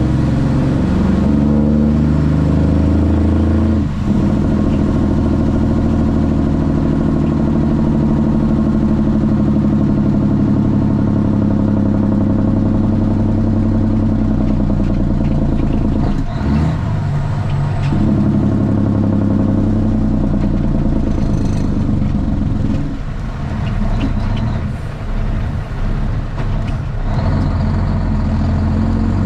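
Straight-piped Cummins ISX inline-six diesel in a Kenworth T800 running under load, heard from inside the cab, with a deep, steady exhaust note. The note breaks off briefly twice, about 4 and 16 seconds in, then goes quieter and uneven for a few seconds near the end.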